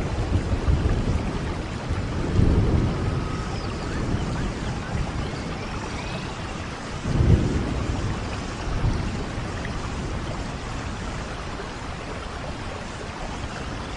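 Steady rain with low rolls of thunder, the strongest about seven seconds in, then easing to an even rain hiss.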